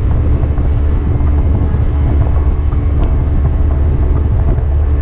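Boat motor running steadily under way, a low, constant drone, with wind buffeting the microphone.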